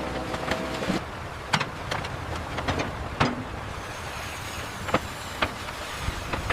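Heavy construction machinery running with a low, steady rumble and a whine that stops about a second in, over sharp metallic clanks and knocks every second or so.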